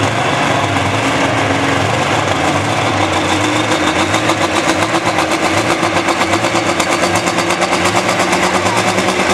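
John Deere 4250 diesel pulling tractor running flat out under load as it drags the weight sled, holding steady high revs with a fast, even pulse that grows stronger about halfway through.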